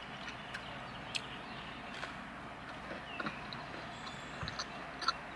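Quiet chewing of mac and cheese and chicken nuggets, with a few scattered soft clicks, over a faint steady hum.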